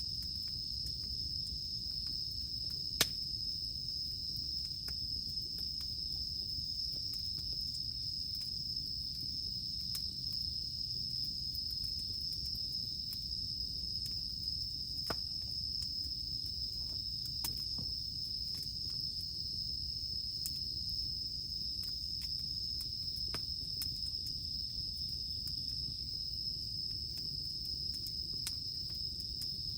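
Campfire crackling with scattered sharp pops, the strongest about three seconds in, under a steady high-pitched chirring of insects.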